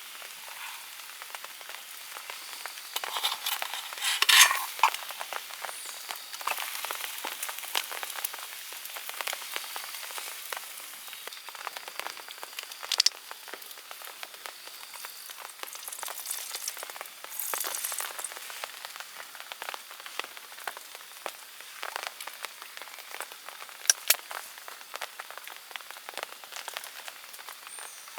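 Dense, steady crackling and pattering of rain and a bonfire, with a few sharp pops, one about four seconds in, one near the middle and one near the end.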